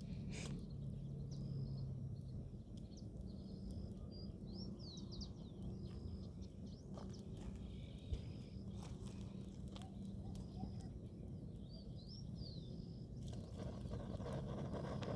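Birds calling outdoors, a short high note repeated every second or two among quicker rising chirps, over a steady low rumble. A few sharp crackles from a campfire are heard, and a rushing hiss comes up near the end.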